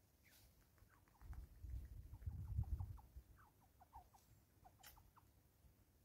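Faint, quick high chirps from small birds, several a second, each a short downward slide, over a low rumble between about one and three seconds in.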